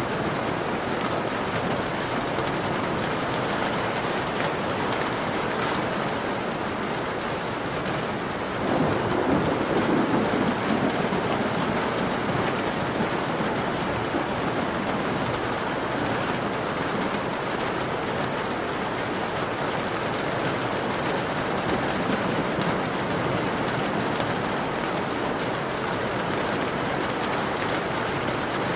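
Steady rain pattering against a window. About nine seconds in, a low rumble of thunder swells and fades away over a few seconds.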